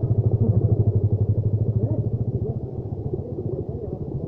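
Trail motorcycle engine running, a fast even pulsing of its firing strokes. It is a little stronger for the first couple of seconds, then eases off slightly.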